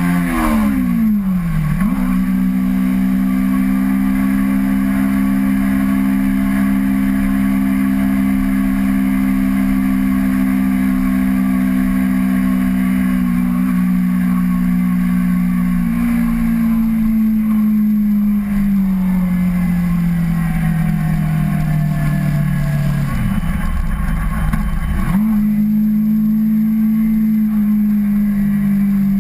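Kawasaki Ninja 250R's parallel-twin engine under way. The revs fall at first, jump back up and hold steady while cruising, then slowly fall over several seconds as the bike slows. They dip and pick up again to a steady note for the last few seconds, with low wind rumble throughout.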